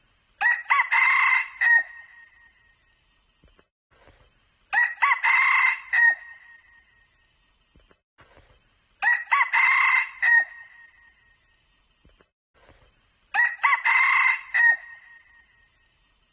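Red junglefowl cock crowing four times, each crow about a second and a half long and evenly spaced about four seconds apart. The crows look identical, like a repeated recording.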